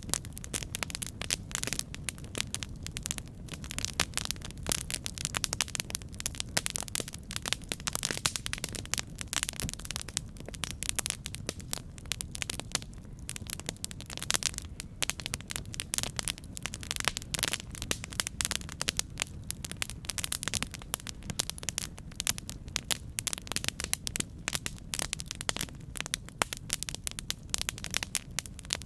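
Campfire crackling: a dense, irregular stream of small pops and snaps over a steady low rumble.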